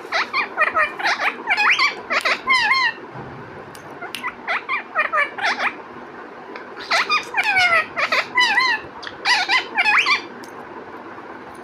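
Parrot chattering in quick, high chirps and warbling whistles that slide up and down in pitch, in three bouts with short pauses between.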